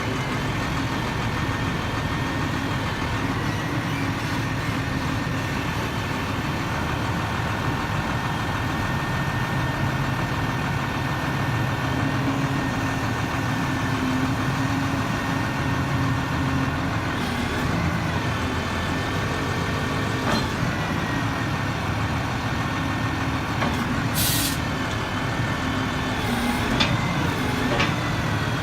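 Sterling grapple truck's Cummins six-cylinder turbo diesel engine running steadily at idle, with a short hiss near the end.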